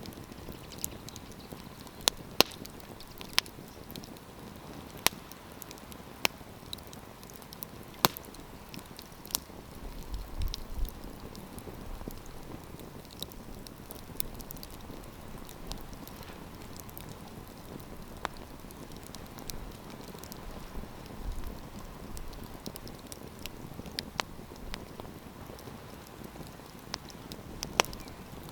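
Wood campfire burning with a steady hiss and irregular sharp crackles and pops, the loudest clustered in the first ten seconds and again near the end.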